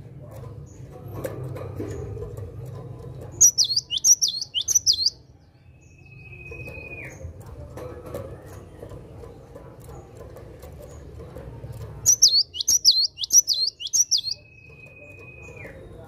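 Cinereous tit (gelatik batu) singing in vigorous full song: two bursts of about six quick, sharp, high notes, each followed by a long level whistle that drops away at its end.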